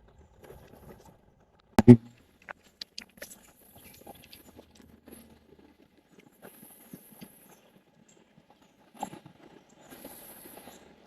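Handling noise: a loud double thump about two seconds in, then scattered light clicks, taps and rustling, with a few short bursts of high hiss.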